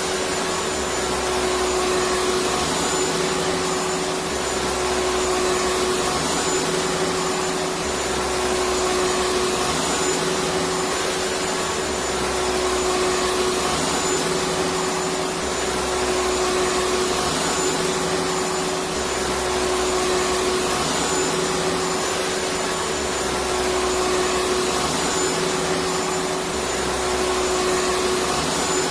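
Electric vacuum cleaner running steadily: a constant rushing hiss with a steady mid-pitched whine, and a low hum that swells and fades about every four seconds.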